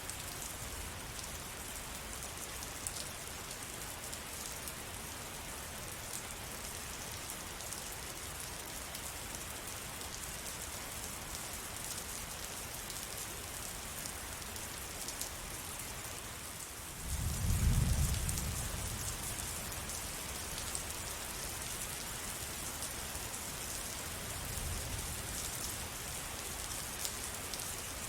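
Steady rain falling. About two-thirds of the way through, a low rumble of thunder rises and fades over a few seconds, and a fainter rumble follows near the end.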